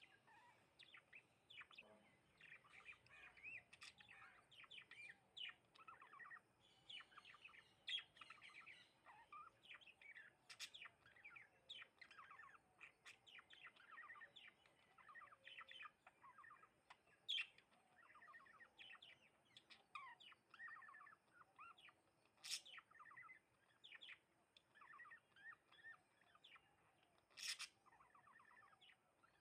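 House sparrows chirping continually in quick short notes, with a few sharper, louder chips scattered through.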